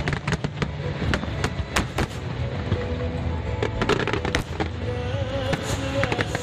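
Fireworks going off in rapid, irregular succession: sharp bangs and crackles over a low rumble. Music plays along with them.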